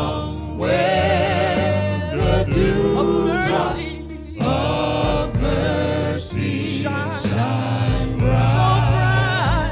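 Gospel praise-and-worship music: voices singing long, wavering held notes over a steady low accompaniment from the band.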